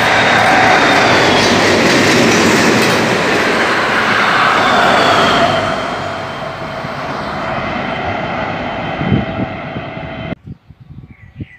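DB Class 218 diesel-hydraulic locomotive hauling tank wagons past at close range: loud engine and wheel-on-rail noise whose pitch drops slightly as it goes by, fading after about five seconds. Near the end the sound cuts off abruptly to a quiet background.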